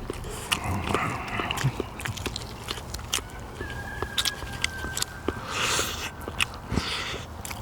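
Eating sounds: chewing and gnawing meat off pork neck bones, with many small sharp clicks of bones and utensils and a couple of short slurps.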